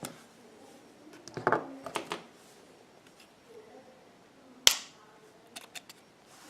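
Small clicks and scrapes of work on an iPhone 6 while its SIM tray is pried out without the proper ejector tool, with one sharp, loud click a little under five seconds in and a few faint ticks just after.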